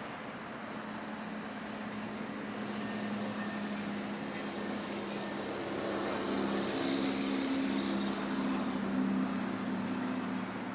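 An engine passing by: a steady hum that grows louder over several seconds, peaks, then fades.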